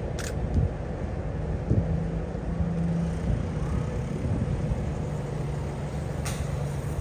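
Distant diesel-hauled passenger train running on an elevated concrete viaduct: a low steady rumble with a held engine hum. Two brief sharp clicks, one near the start and one near the end.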